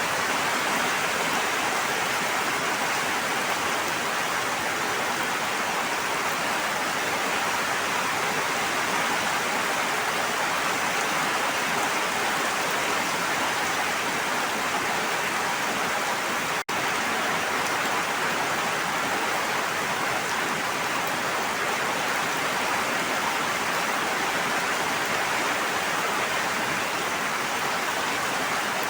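Steady, even rush of water noise, unbroken except for an instant where it cuts out about two-thirds of the way in.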